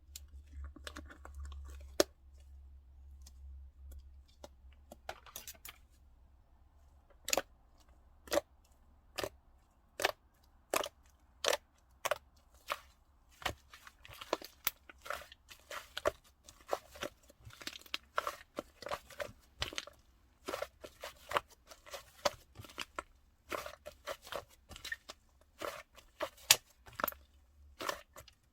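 Eggshell being tapped and cracked: a series of sharp, crisp clicks, about one a second at first, then coming faster, two or three a second, in the second half.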